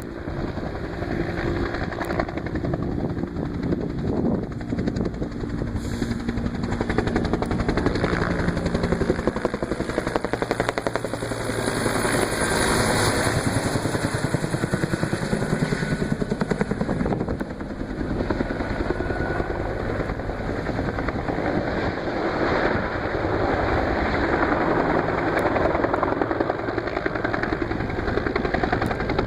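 Firefighting helicopter's rotor beating rapidly and steadily, growing louder and fainter by turns as the helicopter moves about.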